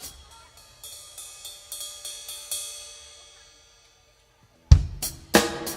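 Live drum kit: several light cymbal taps in the first couple of seconds that ring away to a short silence, then, near the end, loud kick drum and snare hits as the band starts the next song.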